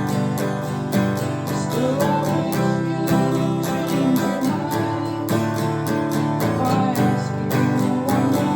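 Acoustic guitar strummed in a steady, even rhythm, playing chords.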